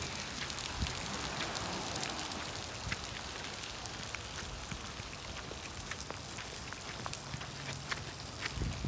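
Rain falling on wet pavement and puddles: a steady hiss scattered with sharp ticks of individual drops.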